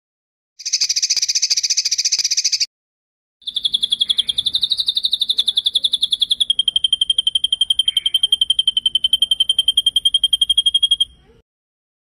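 Two rapid, high-pitched trills of the kind used as masteran song for training songbirds. A short trill of about two seconds comes first. After a brief gap comes a long one of about seven and a half seconds that drops slightly in pitch halfway through.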